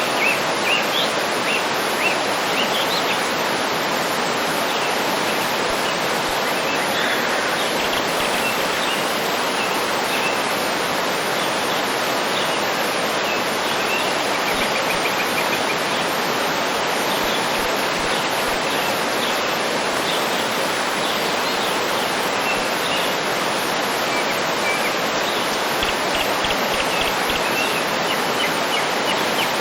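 Waterfall pouring with a steady rush of water, with birds chirping and trilling now and then over it.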